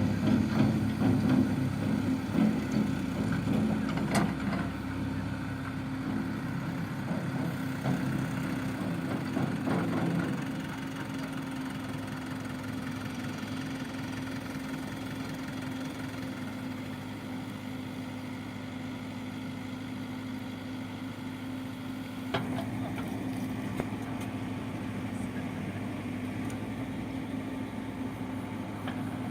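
Diesel engine of an earthmoving machine such as a backhoe loader or bulldozer running steadily. It is louder for the first ten seconds or so, then drops to a quieter, even idle.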